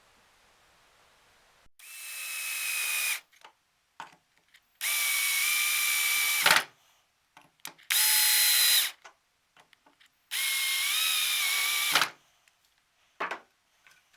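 Small electric power tool, such as a drill, run in four short bursts of one to two seconds each, its motor whine spinning up at the first start and wavering under load in the last; a short click near the end.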